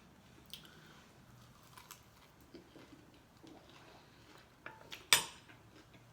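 Light scattered clicks and taps of cutlery and dishes being handled for a meal, with one sharp clatter about five seconds in.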